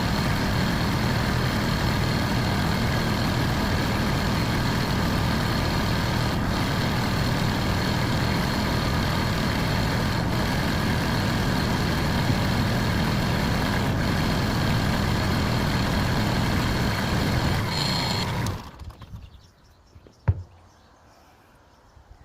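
Kubota L3130 tractor's diesel engine idling steadily on its post-service run after an oil change and alternator swap, then shut off about eighteen seconds in. A single sharp knock follows about two seconds later.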